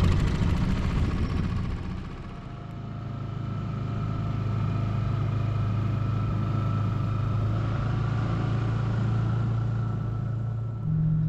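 Small boat's motor running under way with a steady drone. It eases off about two seconds in, then holds steady, and its note changes just before the end.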